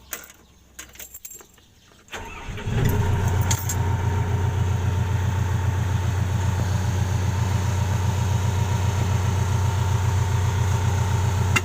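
A tracked excavator's diesel engine is started about two seconds in, catches, and settles into a steady idle with an even pulsing beat.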